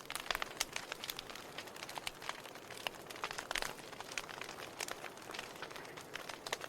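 Burning firewood crackling: irregular sharp pops and snaps over a soft hiss, with a quick cluster of pops about three and a half seconds in.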